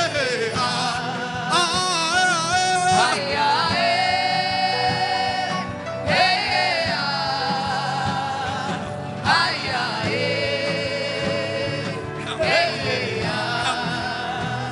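Gospel worship music: a voice sings long, held, wavering notes in phrases of a few seconds over a steady backing, with no clear words.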